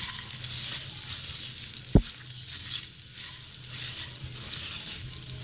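Broken wheat (dalia) sizzling as it roasts in a little oil in a nonstick pan over a low flame, stirred by a silicone spatula that scrapes across the pan again and again. There is a sharp knock about two seconds in.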